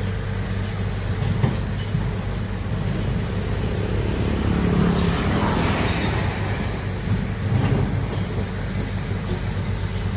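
Heavy excavator's diesel engine running steadily with a constant low hum, a rushing hiss swelling and fading around the middle.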